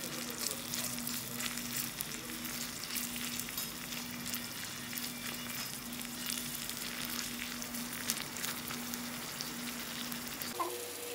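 Chopped onions and tomatoes sizzling in hot oil in a tiny steel kadai, a dense steady crackle of spitting oil, with a low steady hum underneath. The sizzle stops shortly before the end.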